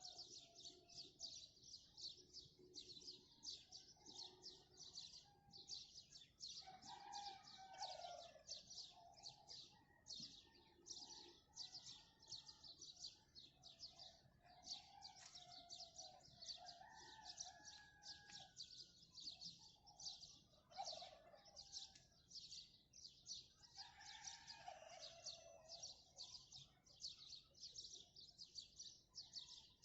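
Many small birds chirping in a fast, unbroken chorus, with a rooster crowing faintly several times through it.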